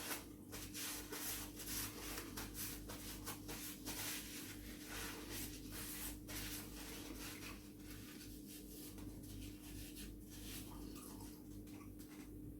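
A person chewing food close to the microphone, a dense run of short crackly, wet clicks that thins out after about eight seconds, over a faint steady low hum.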